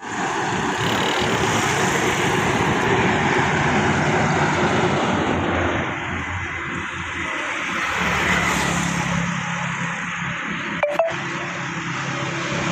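Flowing river water rushing steadily. A low hum joins in over the second half, and there is one sharp click near the end.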